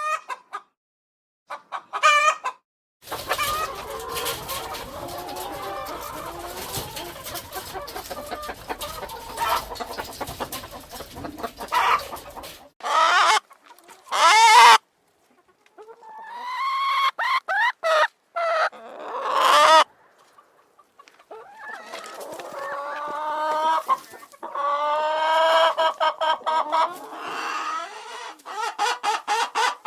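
Chickens clucking with a rooster crowing, in several short recordings joined by abrupt cuts.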